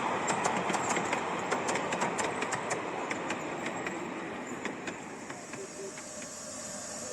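A passing train rumbling along the track, its wheels clicking over the rail joints. The clicks come thick at first and thin out as the sound fades away.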